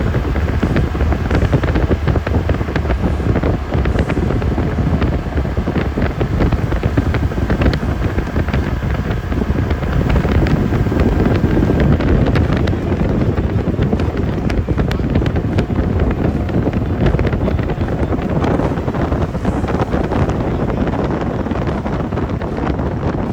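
Wind buffeting the microphone, a loud low rumble with crackling gusts throughout.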